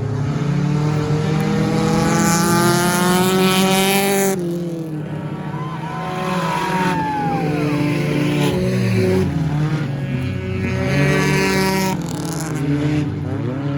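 Several stock car engines running hard as the cars race past on the track. One engine rises steadily in pitch over the first four seconds, then drops away suddenly. Another climbs again late on.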